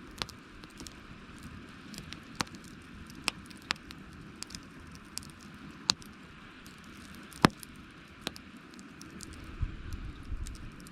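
Wood campfire crackling: sharp pops at irregular moments over a steady hiss, the loudest about two-thirds of the way through. A low rumble comes in near the end.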